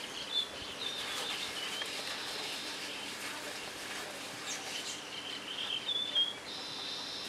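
Small birds chirping, short high calls repeating on and off, over a steady background hiss.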